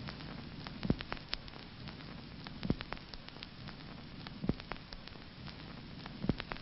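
A low steady hiss with scattered sharp clicks and taps at uneven intervals, some of them louder, around one, three and four and a half seconds in.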